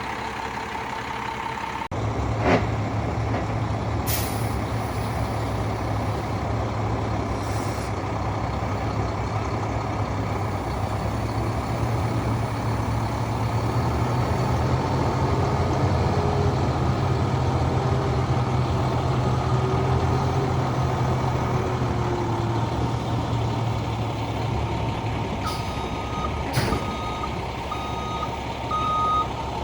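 Diesel engine of a 2008 International 8600 semi truck running, with a heavier low drone coming in about two seconds in as the truck moves off, and a few short air-brake hisses. Near the end a reversing beeper starts, beeping steadily as the truck backs up.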